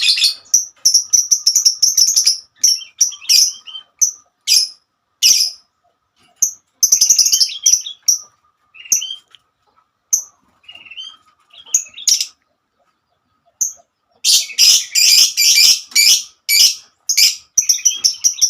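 Lovebird chirping: short, sharp, high-pitched chirps in quick runs, broken by a few brief silences, with a fast, dense run of calls near the end.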